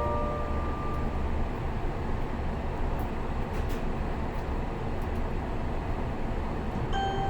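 Steady low rumble and hiss inside a train carriage on the Resort Yamadori. The last notes of an onboard chime die away about a second in, and the first note of the next chime starts near the end.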